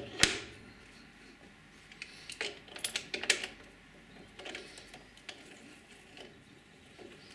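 Scattered light metallic clicks and clinks of tools and metal parts being handled at a lathe: one sharp click just after the start, a cluster of several between about two and three and a half seconds in, and a few fainter ones later, with quiet between.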